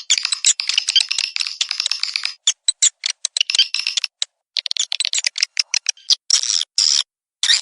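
Recorded swiftlet twittering played as a lure call for a swiftlet house: rapid, high-pitched chirps in dense trains, pausing briefly a few times.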